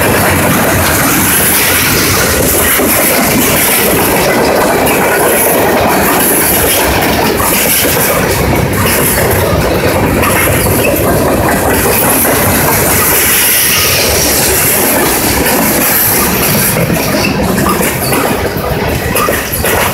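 Freight cars of a CSX freight train rolling past at close range: a loud, steady rumble and clatter of steel wheels on the rails, with clickety-clack over the rail joints.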